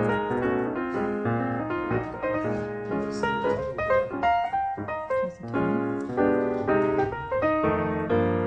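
Background piano music, a quick run of keyboard notes.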